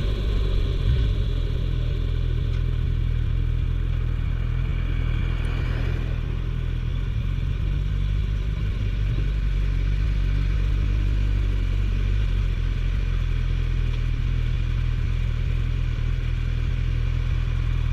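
Suzuki GSF1250S Bandit's inline-four engine running at a steady cruise, with a steady rush of wind and road noise over it.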